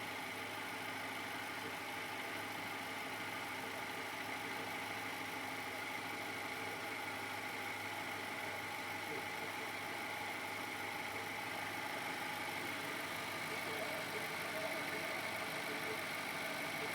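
2011 Infiniti QX56's 5.6-litre V8 idling steadily at 130,000 miles, with a light, high-pitched tick like a bike chain pedalled backwards. The owner takes the tick for timing chain noise and asks whether it is worrisome.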